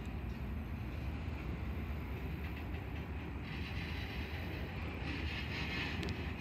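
Union Pacific freight train of covered hopper cars rolling slowly past, a steady low rumble of wheels on rails. A higher rushing noise joins about halfway through.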